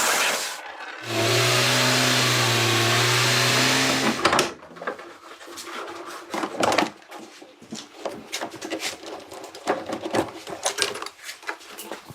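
A loud steady hiss that breaks off briefly, returns with a steady low hum for about three seconds and stops, followed by irregular light clicks and knocks.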